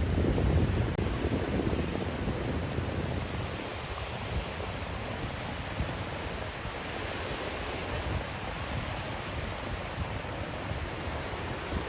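Steady rushing white noise of the kind played to help babies sleep, heavier in the low end for the first second, then even.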